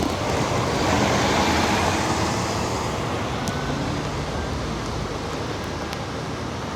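Road traffic noise: a steady hiss of passing vehicles, with one swelling past about a second in.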